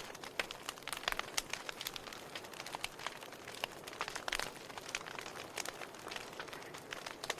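Firewood burning steadily: a soft hiss of flames with irregular crackles and pops, several a second, a few louder snaps among them.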